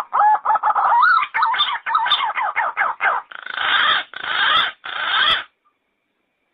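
Yellow-footed green pigeon calling: a run of quick, wavering whistled notes, then three longer, rougher notes, stopping about five and a half seconds in.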